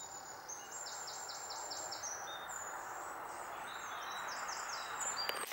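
Woodland birds singing: runs of short, high, falling notes repeated a few times a second, twice over, above a steady background hiss.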